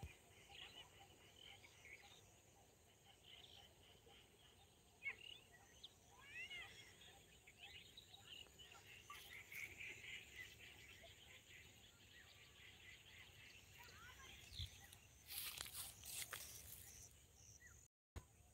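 Faint chirping of small birds, many short rising and falling calls, over quiet outdoor background. A brief rush of noise comes about three-quarters of the way through.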